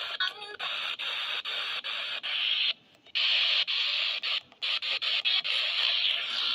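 Radio static hiss from a weather radio tuned between stations, broken by brief regular dropouts and two short gaps.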